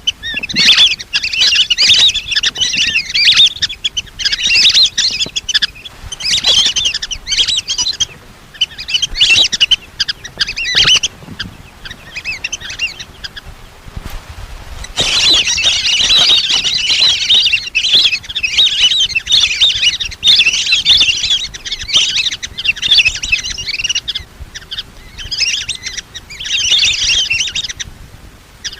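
Lesser whistling ducks calling: a flock's high, chattering whistles in repeated bursts, with a short lull about halfway through.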